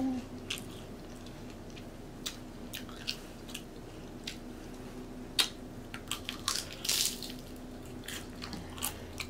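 Person chewing and biting nacho chips topped with cheese sauce: scattered short crunches and wet mouth clicks, thickest about five to seven seconds in.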